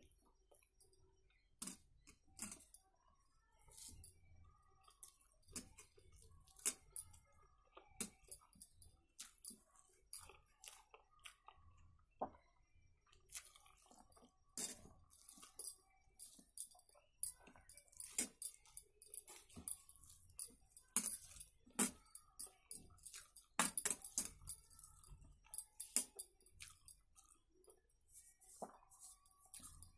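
A person chewing a mouthful of rice eaten by hand, with many short, irregular wet clicks and smacks, growing busier about halfway through.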